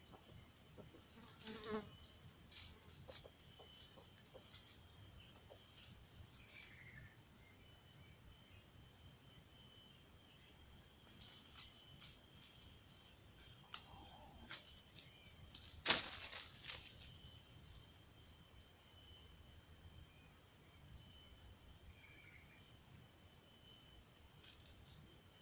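Steady high-pitched insect chorus, with a few faint clicks and one sharper click about two-thirds of the way through.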